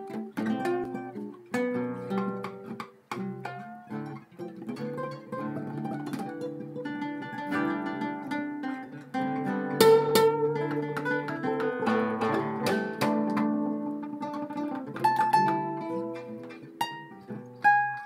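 Acoustic guitar playing an instrumental piece, a quick run of plucked notes.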